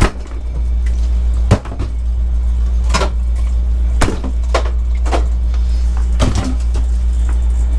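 A steady low engine drone with knocks and clunks over it at irregular intervals, about seven in all.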